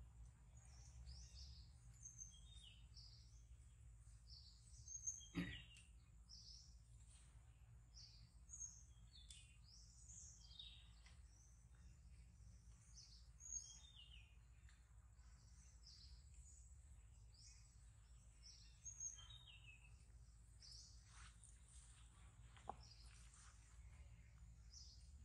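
Faint, frequent high bird chirps, with one sharp click about five seconds in.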